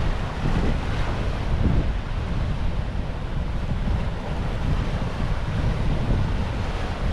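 Ocean surf washing and breaking under strong wind, the wind buffeting the microphone in a steady low rumble.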